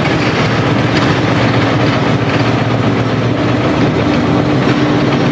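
Marshall tractor engine running steadily and loud.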